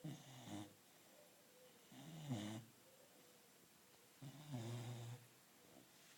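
A 15-week-old Labrador puppy snoring in its sleep: three low snores about two seconds apart, the last one the longest.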